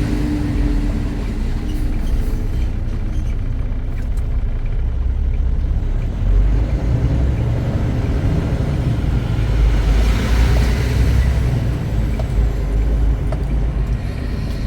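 Semi truck running down the road: a steady, loud, low engine and road drone. About ten seconds in, a brief rushing hiss swells and fades.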